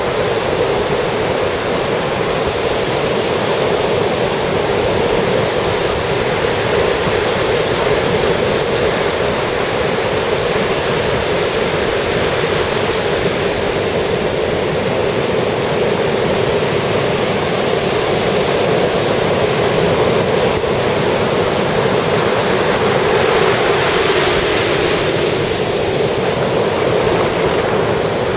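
Ocean surf washing steadily onto a beach, a continuous rush of breaking waves, with one wave swelling a little louder near the end.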